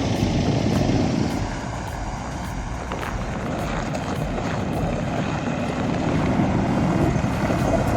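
Crawler bulldozer's diesel engine running, a steady low rumble.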